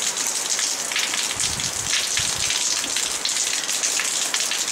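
Steady, dense hiss like rain falling, with a few faint low knocks between about one and a half and two and a half seconds in.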